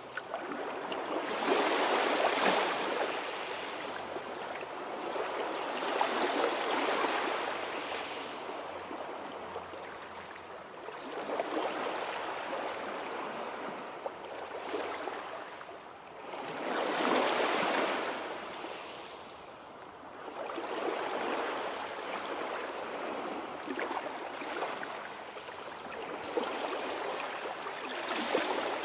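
Sea waves washing onto the shore, the surf swelling and falling back every four to five seconds, loudest about two seconds in and again past the middle.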